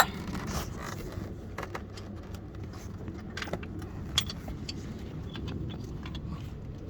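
Metal hand tools and bolts clinking and tapping against the engine while a starter motor is being fitted, with a sharp clink at the start and another about four seconds in, over a steady low rumble.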